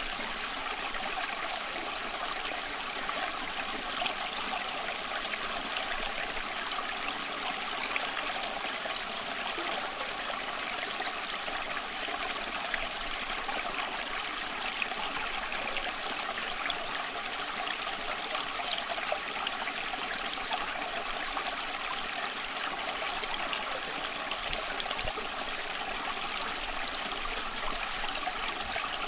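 Small creek flowing and trickling over stones, a steady splashing rush with fine droplet ticks throughout.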